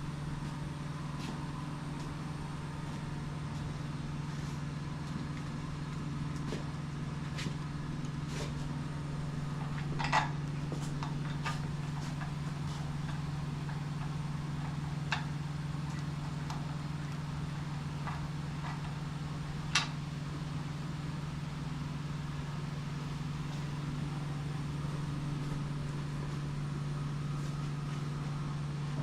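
A steady low hum from a machine in the shop, with a few sharp metal clinks of hand tools as nuts are run onto the lower-unit studs, the loudest about ten and twenty seconds in.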